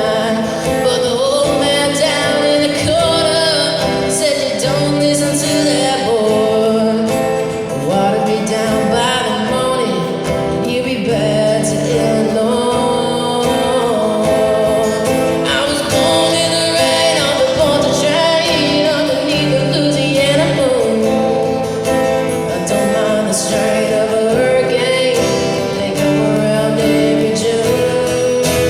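A song sung with acoustic guitar accompaniment: a solo voice holds and bends notes over steady strummed chords.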